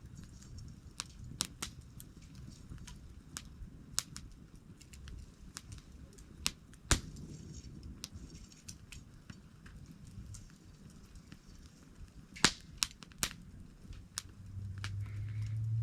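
Wood campfire crackling: scattered sharp pops and snaps over the low rush of the flames, with the loudest pops about seven seconds in and twice around twelve to thirteen seconds in. Near the end a low hum comes in, rising a little in pitch and growing louder.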